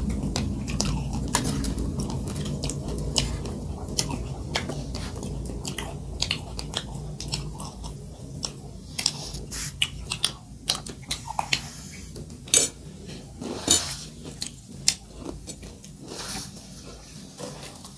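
A person chewing and biting food close to the microphone, with sharp crunches and clicks. Cutlery or dishes clink now and then, more often in the later part.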